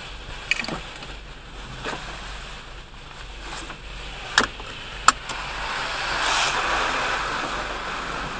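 Car wash heard from inside the vehicle: a steady hiss with several sharp knocks. Then the spray swells louder about six seconds in.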